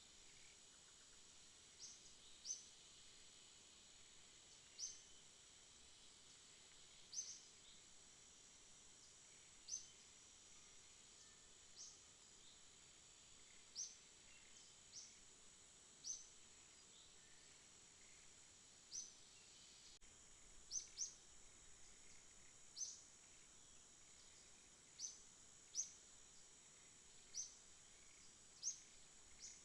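Faint night ambience: a steady high-pitched insect drone, with short sharp high chirps repeating irregularly every second or two.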